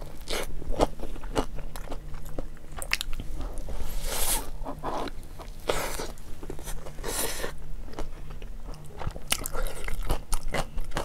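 Close-miked biting and chewing of a hot dog in a bun: a run of crisp crunches and mouth sounds, with a couple of louder crunches about four and seven seconds in.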